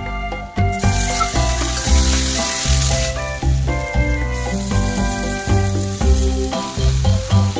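Oil sizzling in a pan of frying potato pieces, the hiss dimming briefly about three seconds in, with shredded cabbage being added. Background music with a changing bass line plays throughout.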